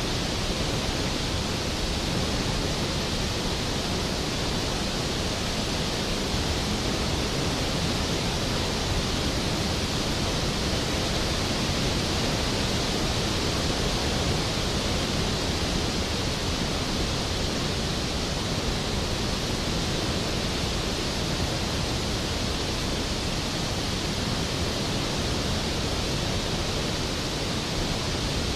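Skógafoss waterfall: a large glacial-river waterfall's steady, even rush of falling water, unchanging throughout.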